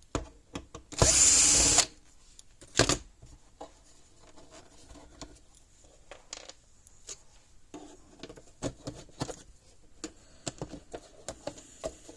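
A cordless power drill or driver runs in one burst of just under a second, backing screws out of a plastic solar fence charger housing. It is followed by quiet clicks and rattles as the plastic parts and screws are handled.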